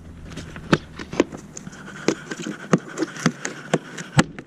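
Irregular sharp taps and knocks on or right at the microphone, a dozen or so scattered through, over a faint low hum that drops out about two seconds in.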